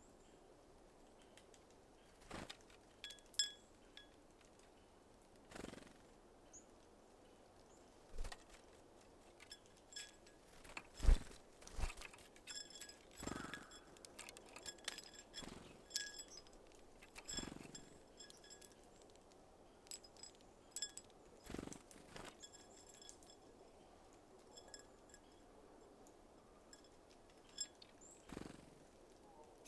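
Small birds at a feeder: scattered sharp taps and knocks from birds landing and pecking at seeds, the loudest about eleven seconds in, with short high, thin calls now and then.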